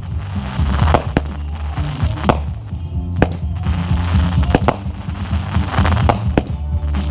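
Fireworks going off with a sharp bang every second or so, over loud music with a heavy bass.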